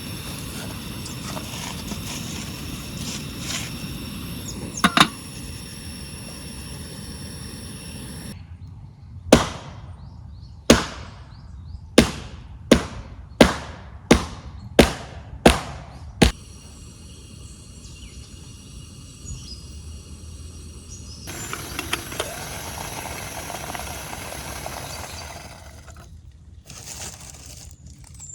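A run of eight sharp strikes, about one every 0.7 seconds, each with a short ringing tail, set against a steady outdoor background.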